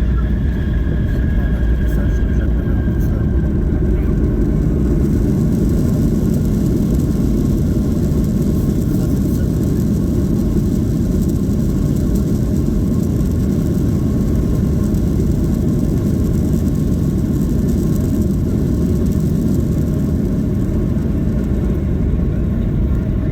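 Cabin noise of a Boeing 737-800 landing: a steady, loud rumble from the CFM56-7B jet engines and the airframe, with a faint whine that sinks slightly in pitch over the first few seconds.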